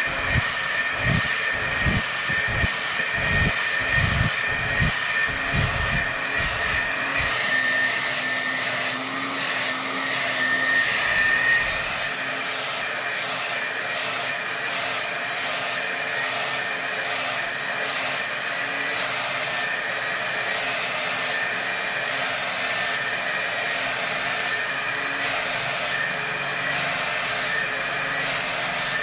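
Hair dryer running at full power, a steady blowing rush with a high whine. For the first several seconds a low pulsing comes through about twice a second, then the blowing evens out.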